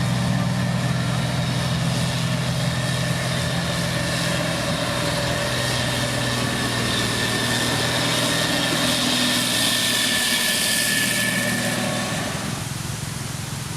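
Diesel engine of heavy road-building machinery running steadily with a low drone. The low engine note weakens after about four seconds, and the sound drops off near the end.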